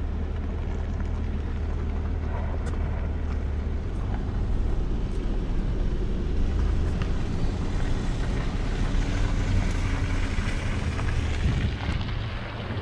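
Plow truck engine running, a steady low rumble under a wash of road and air noise that grows a little louder a few seconds in.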